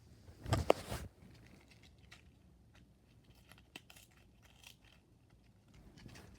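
A small cardboard box of Nerds candy being handled: a burst of rustling and clatter about half a second in, then scattered light clicks and rattles of the tiny candies inside.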